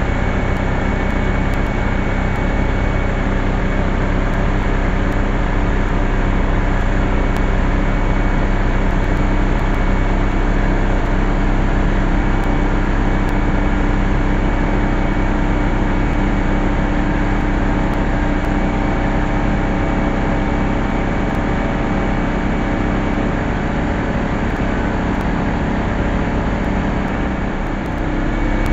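A machine running steadily, with a constant motor hum under a haze of noise; the level dips briefly near the end.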